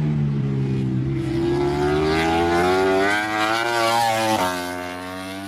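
Racing motorcycle engine accelerating: its note climbs steadily for a few seconds, drops sharply with an upshift about four seconds in, then holds a steady note.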